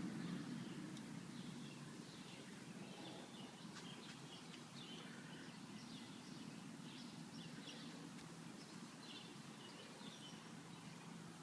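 Birds chirping faintly, in short scattered calls, over a low steady background rumble. The rumble fades down during the first couple of seconds.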